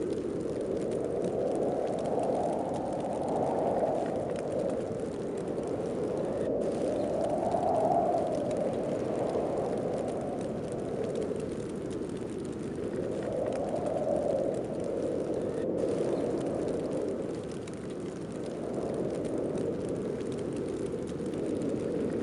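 Heavy snowstorm wind blowing in gusts: a steady rushing that swells and eases every few seconds.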